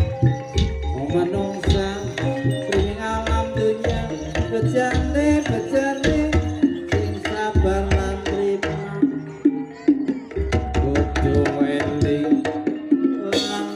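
Live Banyumasan ebeg accompaniment music. Hand-drum strokes, typical of the kendang, are played over a busy run of pitched struck-percussion notes, with low drum thumps recurring throughout.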